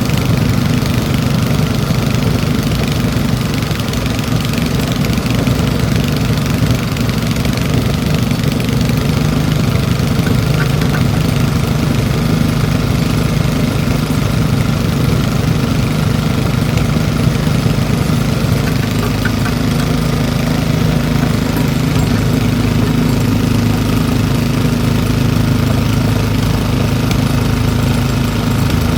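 Old Briggs & Stratton single-cylinder engine running steadily, with its carburettor needle valve opened up further.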